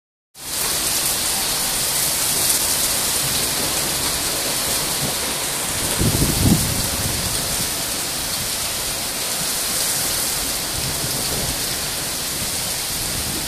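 Heavy thunderstorm rain pouring down in a steady, loud hiss, with a brief low rumble about six seconds in.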